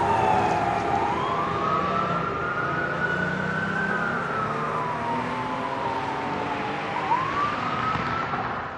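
Fire engine siren in a slow wail, climbing for about three seconds, sinking for about three, then climbing again near the end, over the truck's engine rumble.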